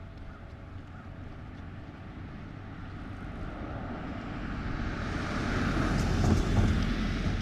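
A vehicle passing, its noise growing louder over several seconds to a peak about six seconds in, then starting to fade.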